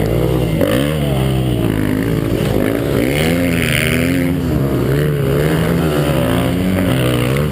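KTM 150 XC two-stroke dirt bike engine revving up and down over and over, its pitch rising and falling about once a second as the throttle is worked through off-road terrain.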